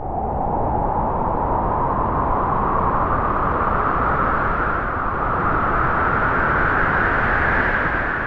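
Wind blowing in a long gust: a steady rushing hiss whose whistling band slowly rises in pitch as it swells, easing off near the end.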